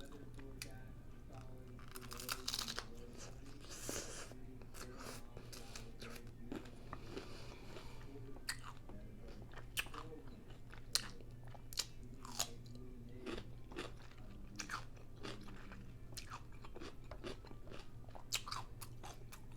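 Close-up chewing with sharp crunches as a crisp taco-boat shell filled with chorizo is bitten and eaten; the crunches come at irregular intervals, a few louder ones near the middle.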